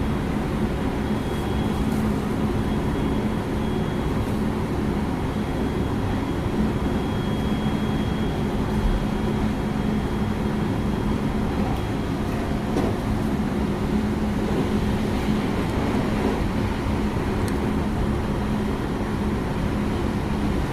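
Running sound inside a JR West 223 series 6000-number Kumoha 223 motor car at steady speed: an even rumble of wheels on rail with a constant low hum. No rise or fall in pitch.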